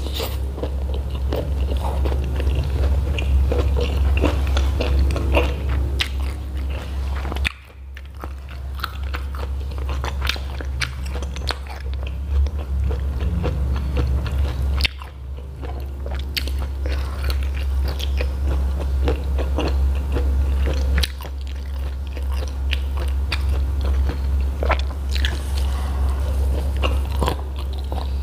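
Close-miked eating sounds: biting into and chewing slices of jengkol (dogfruit) coated in chili balado sauce, with many small crisp mouth clicks over a steady low hum.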